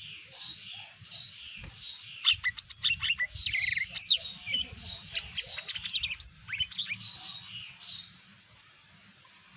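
Cucak ijo (green leafbird) singing: soft, evenly repeated chirps at first, then from about two seconds in a loud, rapid run of varied sharp whistled notes and quick sliding chirps, stopping about eight seconds in.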